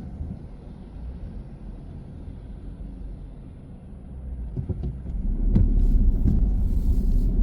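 Car driving, a low road and engine rumble that grows clearly louder about five seconds in as the car picks up speed, with a few short knocks over the road surface.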